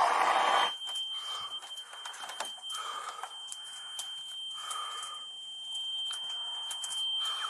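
A loud rushing hiss cuts off under a second in. After it a smoke alarm sounds one steady high-pitched tone, with scattered scuffs and clicks of movement.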